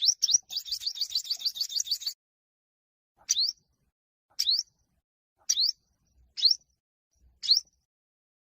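Olive-backed (yellow-bellied) sunbird singing its challenge song: a fast trill of high rising notes for about two seconds, then single sharp upward-sweeping notes about once a second.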